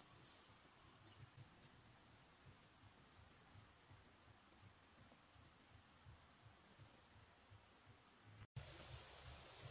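Faint, steady high-pitched trilling of crickets, one note pulsing evenly, over a low background hum; all sound cuts out for an instant near the end.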